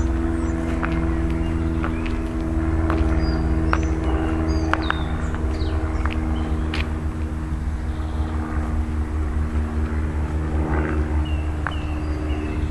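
Songbirds chirping in short high whistles over a steady low drone and rumble.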